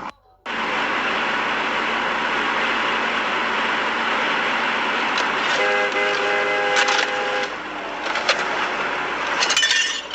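Steady road and traffic noise from a moving vehicle. A vehicle horn sounds for about two seconds midway, and a quick cluster of sharp knocks comes near the end.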